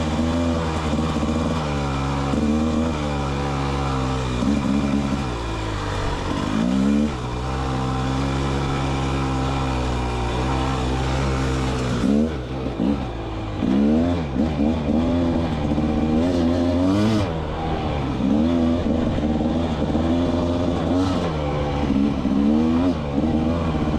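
2024 Rieju MR300 Pro's 300cc two-stroke engine under way in first and second gear. The revs rise and fall with the throttle: a fairly steady stretch in the middle, then repeated quick blips up and down in the second half.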